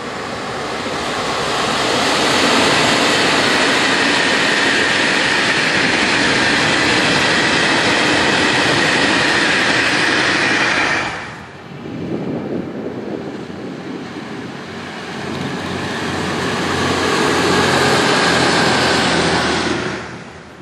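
Electric trains passing at speed: a steady rush of wheels on rail with a faint high tone over it. It cuts off abruptly about eleven seconds in, then a second passage builds and dies away near the end.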